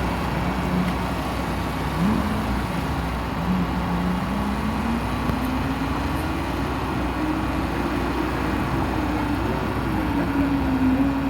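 Lamborghini's engine on a timed run, its note rising and falling repeatedly as it climbs through the revs and eases off, over steady background noise.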